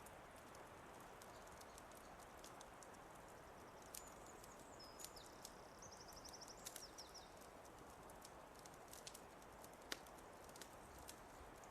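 Wood fire crackling faintly: a soft steady hiss with scattered sharp pops, the loudest near the end. Midway a bird gives two short high trills of quickly repeated notes.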